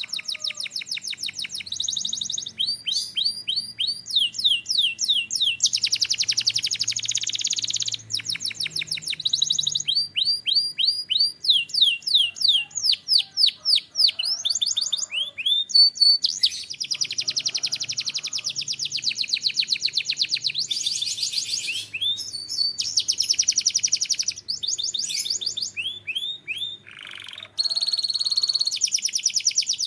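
Domestic canary singing a long, continuous song of rapid trills and runs of quickly repeated rising notes, switching to a new phrase every second or two with a few brief pauses.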